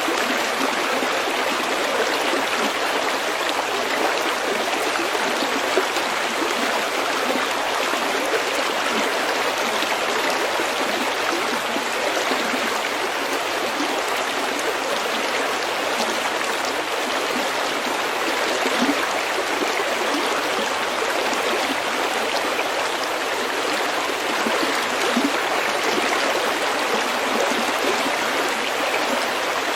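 A stream running steadily over pebbles, a continuous rush of water with fine gurgles in it.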